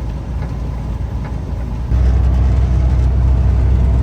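Semi truck's engine and road noise: a steady low drone while driving. About two seconds in it jumps abruptly louder and steadier.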